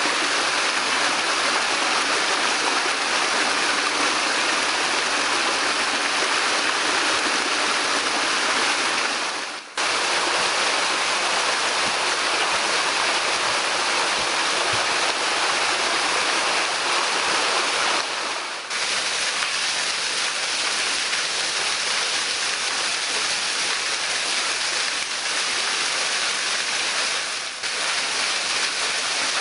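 Two-tier waterfall with a 10 m drop: water falling and splashing in a steady, loud rush, dipping briefly three times.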